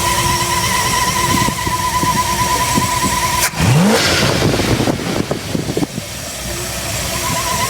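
Ford F250's carbureted engine running at a high idle, the sign of a choke sticking on, with a steady whining tone. About halfway through there is a sudden break, then a rising surge and a couple of seconds of rough, uneven noise before it settles lower.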